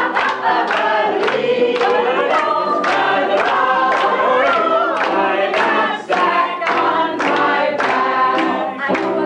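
A group of people singing a song together, several voices at once.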